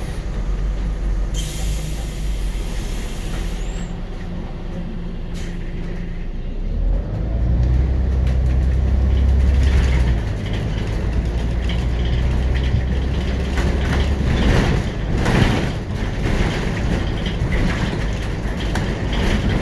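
Scania CN94UB Omnicity city bus with its Scania DC9.01 five-cylinder diesel and ZF 4HP500 automatic gearbox: a short hiss of air brakes early on, then the engine pulling harder from about seven seconds in, its note shifting in steps, followed by rattling road noise.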